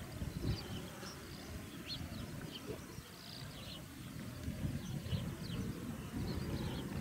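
Strong gusty wind buffeting the microphone in uneven rumbles, with small birds chirping repeatedly over it.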